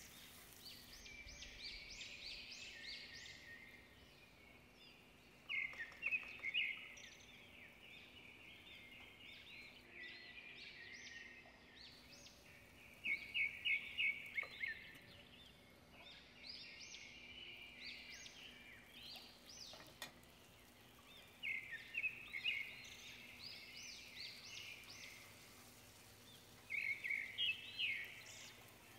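Small birds chirping in repeated bursts of quick, sharp, high calls every few seconds, over a faint steady low hum.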